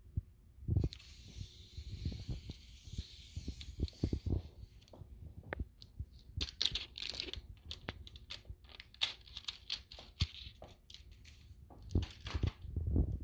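Packaging being handled and pulled apart: plastic and cardboard tearing and crinkling, with scattered knocks and low thumps. A longer scraping tear runs from about a second in to about four seconds.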